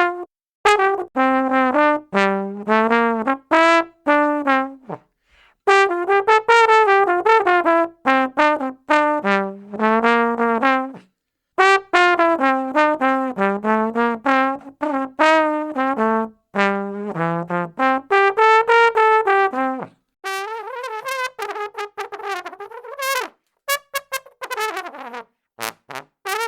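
A brass instrument playing phrases of separate notes that step up and down, with short breaks between phrases. After about twenty seconds the playing turns softer, with higher, shorter notes and a few falling slides.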